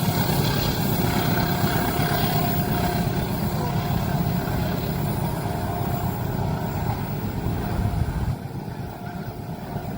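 Train passing with a loud, steady low rumble and a thin steady whine above it for a few seconds; the rumble drops off suddenly about eight seconds in.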